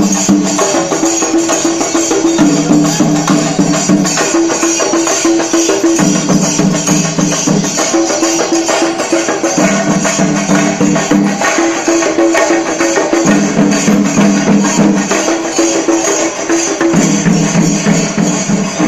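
Shinkarimelam: chenda drums beaten in a fast, dense rhythm under jangling ilathalam cymbals. A low held note joins in for a second or two about every three and a half seconds.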